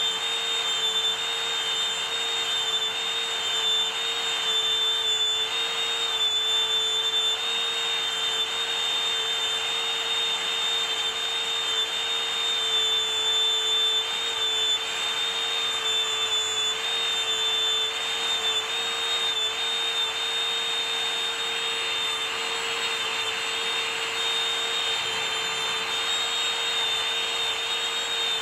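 Small electric power tool running steadily under light load, a constant motor whine with a high tone over a rushing noise that wavers slightly in pitch as the work presses on it.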